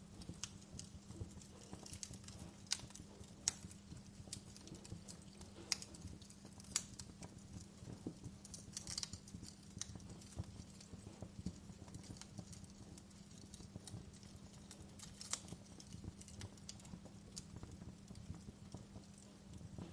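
Wood fire crackling in a fireplace: irregular sharp pops and snaps of varying strength, several a second, over a low steady hum.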